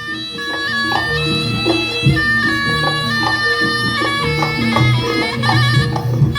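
Jaranan ensemble music: a reedy shawm (slompret) plays a wavering, sustained melody over struck gong-chime notes and drums.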